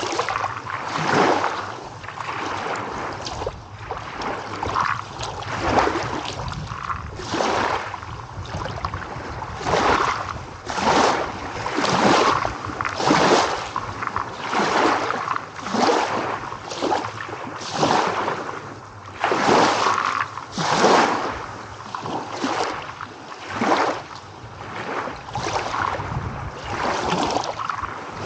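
Small waves lapping and splashing, a swash of water rising and falling about once a second.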